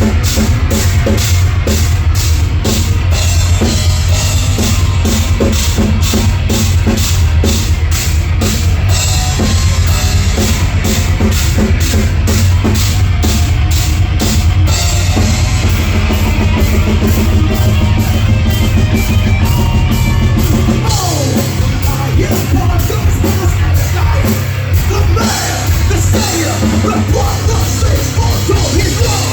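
Live heavy metal band playing loud, with a fast, steady drum-kit beat. About twenty seconds in the low end thins out and sliding pitch lines come forward.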